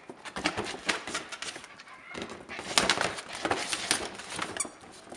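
Yellow Labrador puppies scuffling and being handled, a busy run of rustling, scratching and clicking that is loudest in the middle.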